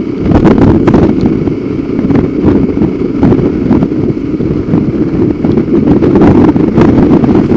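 Motorcycle running at road speed, heard from the rider's helmet, with wind rushing over the microphone and scattered sharp ticks.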